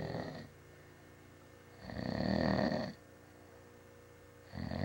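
A person snoring in slow, regular breaths. One snore trails off just after the start, a full snore comes about two seconds in, and the next begins near the end.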